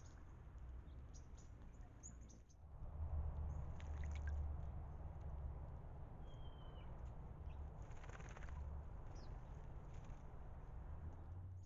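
Small birds chirping at a bird bath: short, high, scattered chirps. Under them a low rumble swells about three seconds in.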